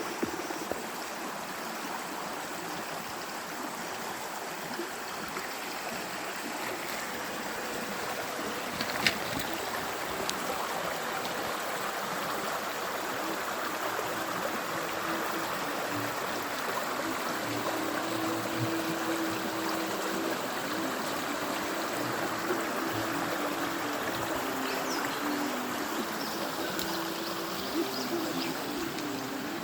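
Mountain river rushing steadily over rocks, with a single sharp click about nine seconds in.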